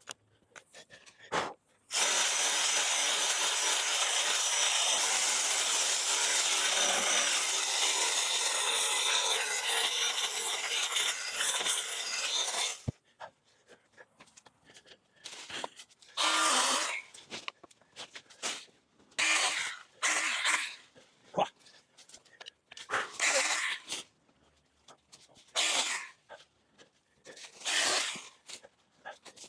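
Stihl battery-powered mini pruning chainsaw running and cutting through overgrown brush for about ten seconds, its chain freshly tensioned, then stopping abruptly. A series of short bursts of about a second each follows.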